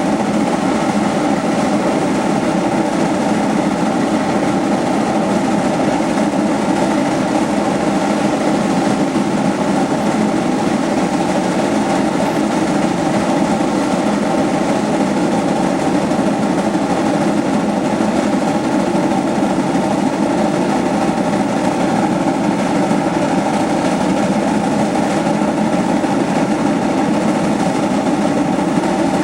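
Heisler #91 geared steam locomotive and its passenger train running under load, a loud, steady, unbroken rumble.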